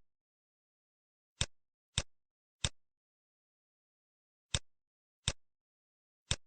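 Computer mouse clicks, six single sharp clicks at irregular intervals with dead silence between them.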